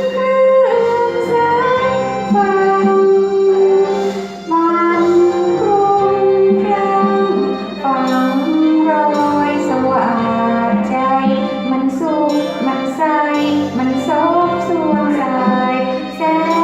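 Music: a woman singing a Thai song over instrumental accompaniment.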